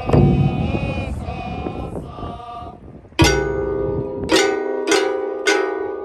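Kane (bronze gongs) of a kane furyu troupe: after a struck beat and about three seconds of chanting voices, the gong is hit four times in quick succession, each stroke ringing on with steady metallic tones.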